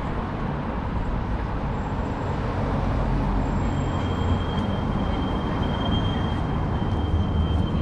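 City street traffic: a steady low rumble of passing vehicles, with a thin, steady high whine joining a little past halfway through.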